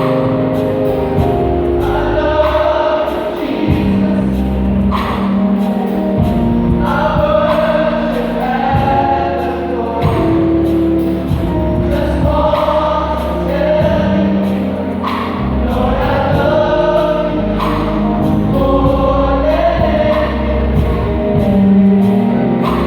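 Gospel vocal group singing the song in harmony over steady instrumental backing.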